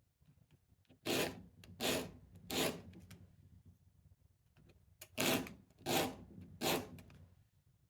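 A small wooden piece is sanded by hand on 80-grit sandpaper to fine-tune its fit: two runs of three short scraping strokes, a couple of seconds apart.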